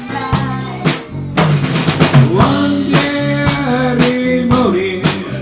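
Live band playing an instrumental passage: a drum kit keeps a steady beat of snare and bass drum hits under held lead notes that bend in pitch.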